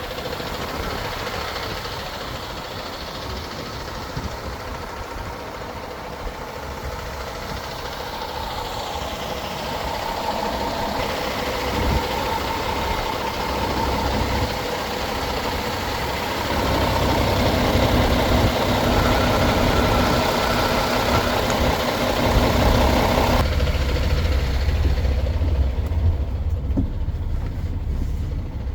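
MAN TGX 26.470 truck's 12.4-litre inline-six diesel engine idling steadily. The tone and balance of the sound change abruptly a few times along the way.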